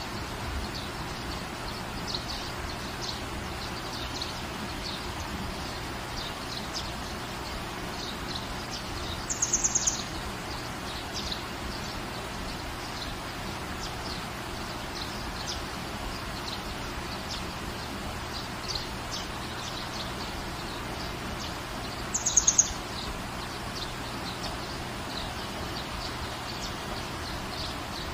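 Steady rain falling in a garden, with small birds chirping faintly throughout; twice, about ten seconds in and again near twenty-two seconds, a bird gives a short, louder, high rapid trill.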